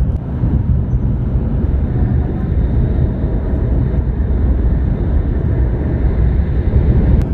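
Steady low rumble of a Mizuho Shinkansen train running at speed, heard from inside the passenger cabin.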